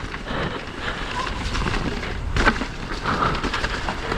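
Wind buffeting an action camera's microphone over the rumble and rattle of a mountain e-bike rolling down a muddy trail, with a sharp knock about two and a half seconds in.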